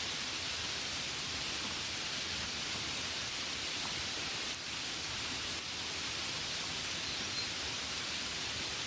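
Gentle rain falling steadily on a window: a continuous, even hiss.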